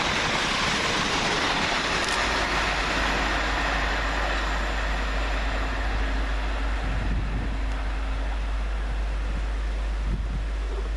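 Two coupled Class 350 Desiro electric multiple units passing through at speed without stopping: a steady rush of wheel and air noise that slowly eases off. A low rumble joins about two seconds in.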